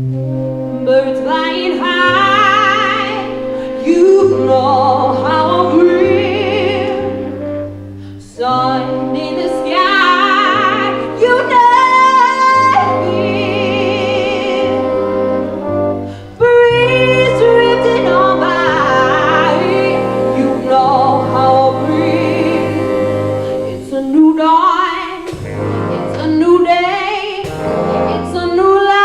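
A swing orchestra playing with a singer: a vocal line over long held chords and bass notes that change every few seconds, with the band coming in louder about eight and sixteen seconds in.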